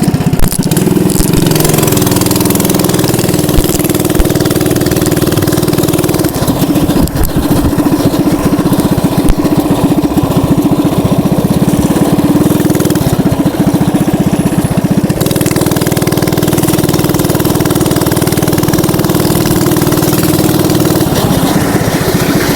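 Mini bike engine running steadily while riding, its pitch shifting slightly a few times.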